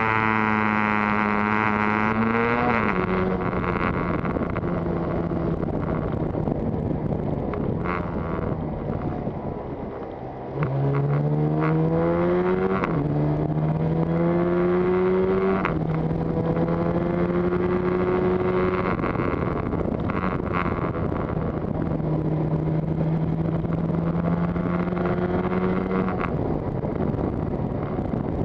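Yamaha TZR250 two-stroke twin engine, with wind on the microphone: the revs fall at first, there is a brief lull about ten seconds in, then it pulls away through two upshifts, the pitch rising in each gear, and holds steady revs near the end.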